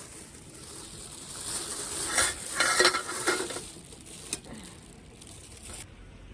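Camp cookware being handled and packed up: rustling with clinks of a pot and utensils, loudest in the middle, then a single sharp click a little after four seconds.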